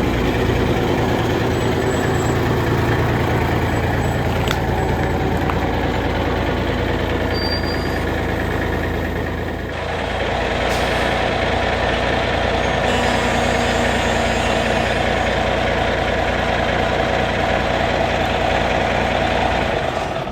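1986 AM General M923A1 5-ton 6x6 army truck's diesel engine running steadily, its note changing about halfway through. The sound cuts off abruptly at the end.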